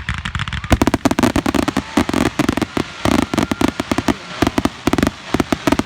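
Fireworks going off in a rapid barrage of sharp bangs and crackles, many per second.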